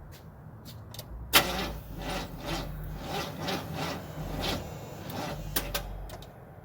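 1978 Chevy C10's starter cranking the engine after a shot of ether, churning in an even rhythm of about three pulses a second for roughly four seconds without firing. A sharp click marks the start of cranking and another marks the stop.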